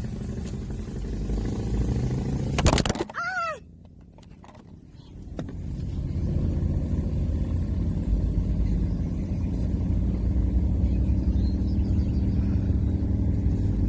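Car driving along, a steady low engine and road rumble from inside the cabin. About three seconds in there is a loud clatter with a brief squeak, the sound drops almost to silence for about two seconds, and then the rumble comes back.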